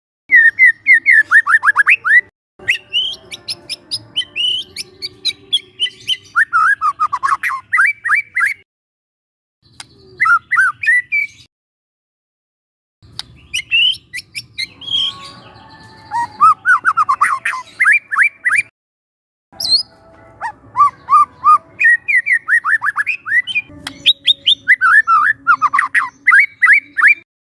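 Young white-rumped shama singing: phrases of rapid, repeated downward-sweeping whistles and chirps, broken by a few short silent gaps.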